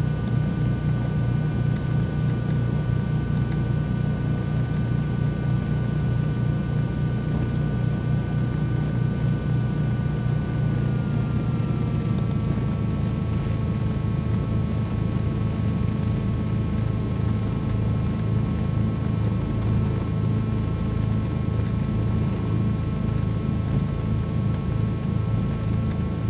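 Cessna 310Q's twin piston engines running steadily, heard from inside the cabin as a loud drone with a low rumble and a few steady tones; the engine pitch eases down slightly about halfway through.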